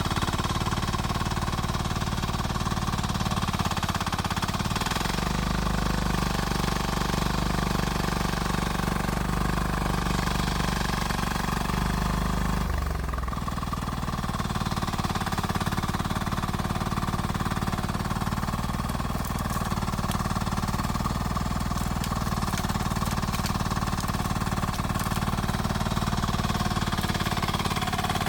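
Rippa R10 mini excavator's small engine running steadily as the machine works, with a brief drop and recovery in pitch about halfway through.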